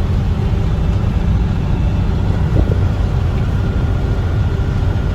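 Box truck's engine and road noise heard from inside the cab while driving, a steady low rumble.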